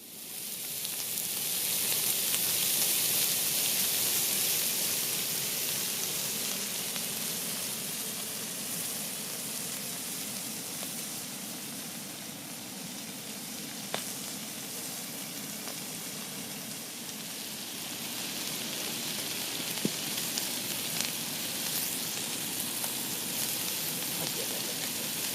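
Food frying: a loud sizzle that starts suddenly, eases off somewhat over the following seconds, with a few sharp pops.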